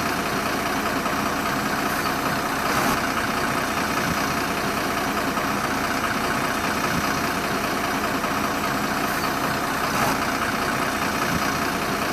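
A truck engine running steadily at an even pace, with no change in speed.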